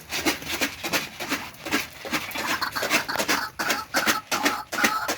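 White-breasted waterhen calling in harsh, rapidly repeated notes amid scratchy rustling, the calls growing more regular from about halfway.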